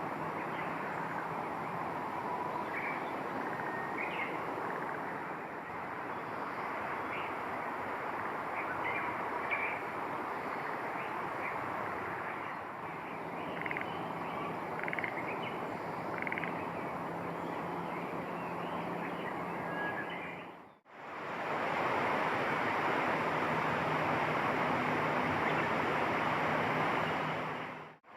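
Outdoor ambience: a steady rushing noise with many short, high chirps scattered through it. The sound drops out briefly about two-thirds of the way through and comes back a little louder.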